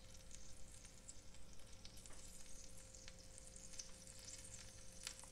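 Grilled cheese sandwich frying faintly in hot ghee in a non-stick pan: a soft sizzle with scattered small crackles.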